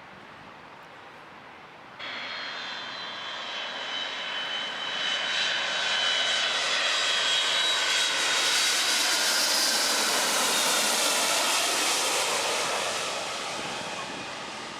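Jet airliner passing low overhead: engine noise with a high whine that slides slightly down in pitch, building to a peak and fading away near the end. It comes in abruptly about two seconds in.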